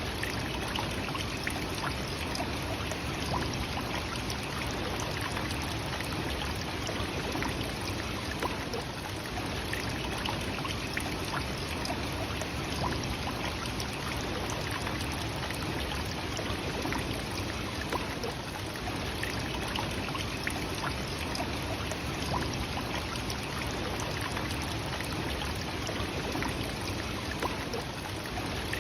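Nachi Falls, a very tall waterfall, with its water falling in a steady, unbroken rush of noise.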